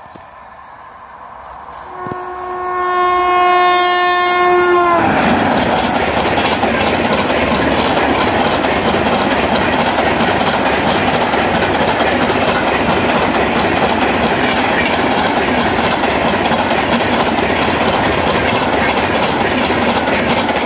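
WAP-7 electric locomotive sounding its horn in one long note from about two seconds in, dropping in pitch as it passes about five seconds in. Then comes the loud, steady rush and clickety-clack of the express's passenger coaches running through at speed without stopping.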